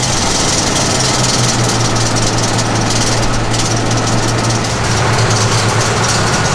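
GMC Jimmy's newly installed 4.3 L V6 running steadily just after start-up, through a fresh custom exhaust with a MagnaFlow three-chamber muffler. Over it comes a squealing and clanging from a starter that needs shimming: after engaging it does not retract fully, so the flywheel rubs on the starter gear.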